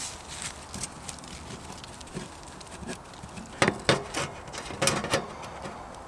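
Faint rustling with several sharp knocks and cracks, loudest in a cluster of four or five about three and a half to five seconds in.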